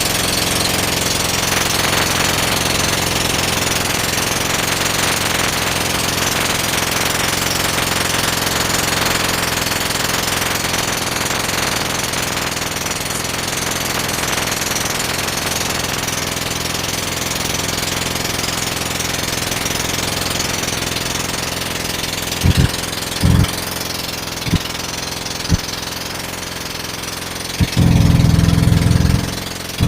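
Motorboat engine running steadily under way, with wind and water rushing past. A few short low thumps come in the last several seconds.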